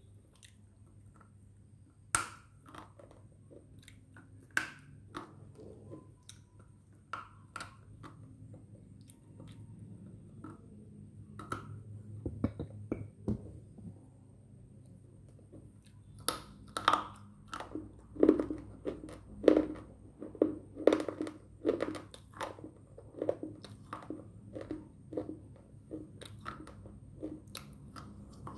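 Close-up biting and crunching of hard slate sticks: a couple of sharp snapping bites in the first few seconds, then from about halfway a steady run of crunchy chews, about two a second.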